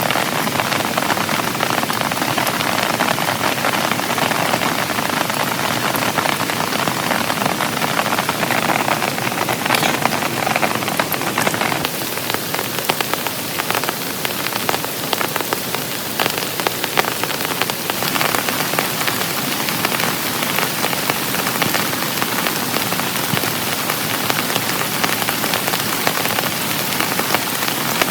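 Heavy rain falling steadily, a dense patter of countless drops striking a surface, easing slightly about twelve seconds in.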